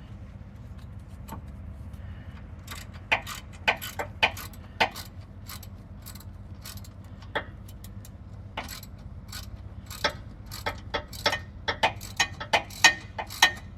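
Ratchet wrench clicking in short, uneven runs as rear hub bolts are tightened by hand, with a metallic clink here and there. A steady low hum sits underneath.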